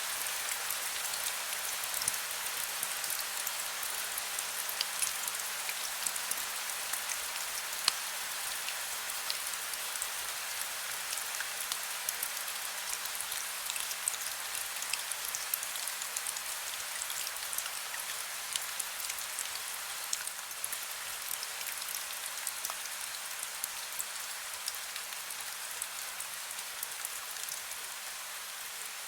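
Heavy rain falling: a steady hiss with many sharp drop ticks, a few of them louder.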